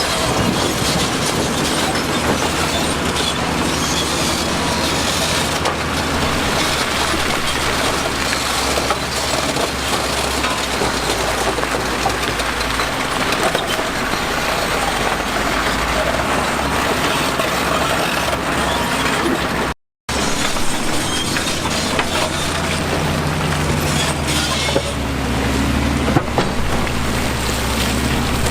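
Heavy diesel construction machinery at work: engines running under a steady gritty rumble of stone and earth being moved. The sound drops out briefly about two-thirds of the way through.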